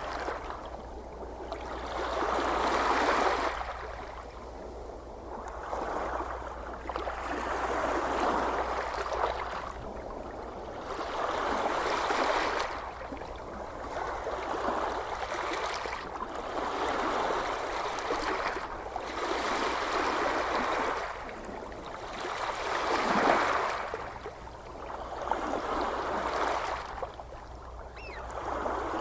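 Small ocean waves washing onto the shore, each swelling and falling away about every three to four seconds, over a steady low rumble.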